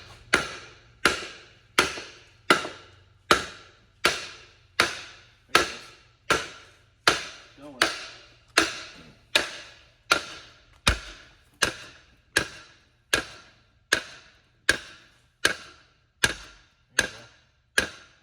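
Hammer blows on the metal shaft of a Ford-O-Matic transmission, struck in a steady rhythm of about four blows every three seconds, each ringing briefly. Hammering the shaft this way risks distorting it.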